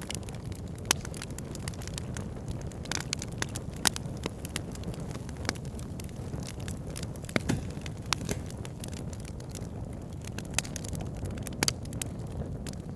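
Fire burning in a fireplace, crackling and popping irregularly over a steady low rumble of flame, with a few sharper pops about one and four seconds in.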